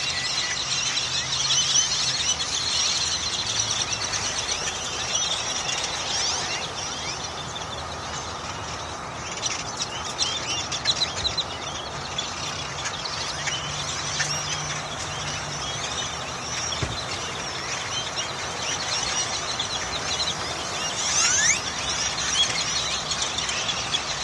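A huge flock of birds calling all at once: a dense, unbroken chorus of overlapping chirps and squeaks.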